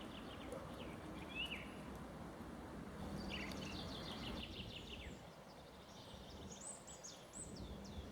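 Several songbirds singing in a spring forest: short falling chirps, then a quick run of notes, and high thin whistles near the end, over a steady low background hum.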